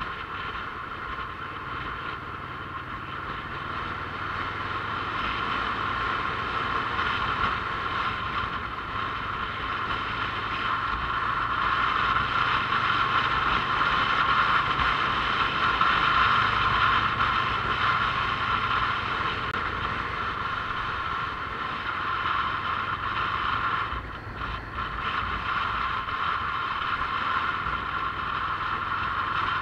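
Onboard motorcycle riding noise: steady engine and road noise, slowly growing louder and dipping briefly about two-thirds of the way through.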